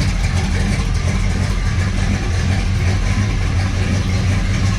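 Chevy Nova's small-block V8 idling steadily while it warms up after a cold start.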